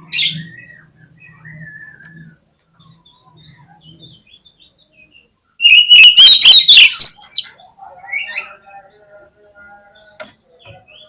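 Oriental magpie-robin singing: scattered whistles and chirps, then a loud burst of rapid, jumbled notes about six seconds in that lasts nearly two seconds, followed by softer whistled phrases.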